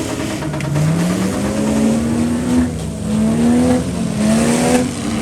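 Engines of demolition derby vans, trucks and SUVs revving over and over, the pitch climbing and falling back several times as the vehicles accelerate, over a wash of engine noise.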